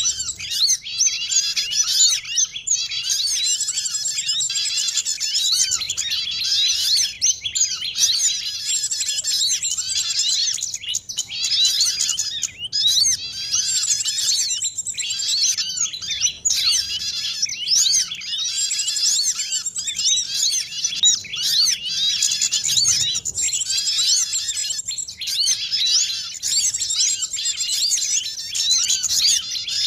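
Bird-luring (pikat) recording: a dense, unbroken chorus of high chirps and twittering calls from many small songbirds layered together, mixing sunbird, white-eye and prinia calls.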